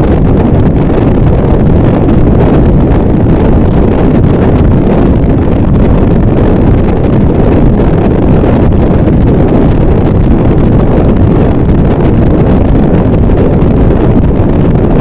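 Harsh noise wall: a loud, dense, unchanging wall of distorted noise, heaviest in the low and low-middle range, with no rhythm, strikes or breaks.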